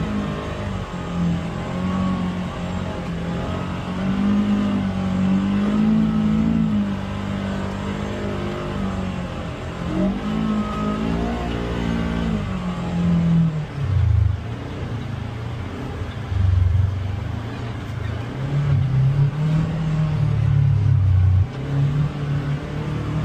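Polaris Xpedition UTV's engine under changing throttle, its pitch rising and falling. In the second half it gets choppier, with several short surges of throttle.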